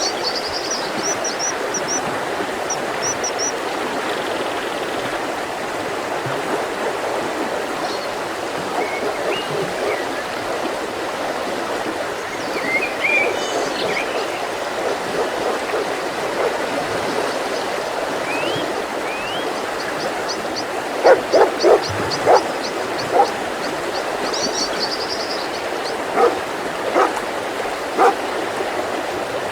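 Mountain river flowing steadily, with small birds trilling and chirping high over it. About two-thirds of the way through a dog barks five times in quick succession, then three more barks come near the end.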